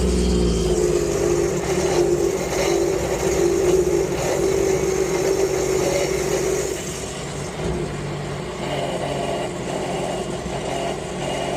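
Sea-Doo personal watercraft engine running just after start-up, louder for the first several seconds and then settling to a lower, steady level about seven seconds in.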